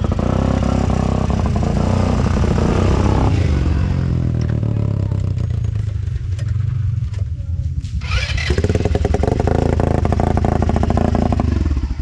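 ATV engine revving under throttle, easing off a few seconds in, then revving up again past the middle and dropping back near the end.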